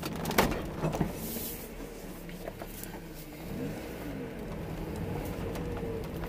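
A 1996 Mazda Miata's 1.8-litre four-cylinder engine is heard from inside the cabin as the car pulls away at low speed. Its pitch rises and falls with light throttle. There are two sharp clicks, about half a second and a second in.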